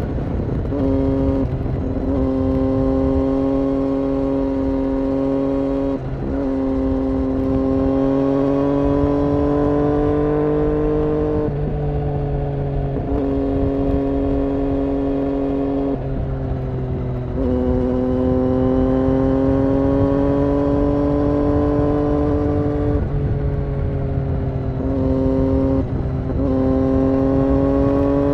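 Triumph Daytona 675 inline-three engine running through an aftermarket IXIL exhaust at steady revs. Every few seconds the note breaks briefly and steps up or down in pitch, then holds or creeps slowly upward again.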